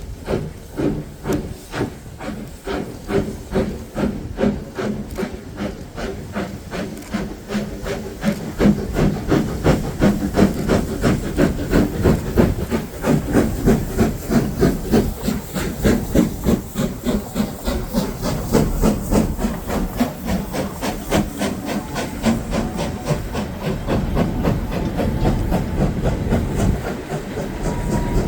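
Steam locomotive working under load, its exhaust chuffing in an even rhythm of about two to three beats a second over a hiss of steam, getting louder about eight seconds in.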